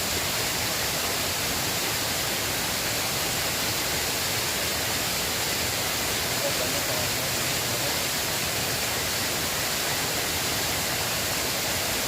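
River water rushing, a steady even hiss with no breaks.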